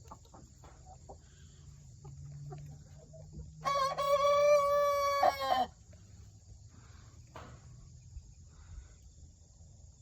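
A rooster crowing once, a single cock-a-doodle-doo of about two seconds starting nearly four seconds in, held at a steady pitch and breaking off at the end.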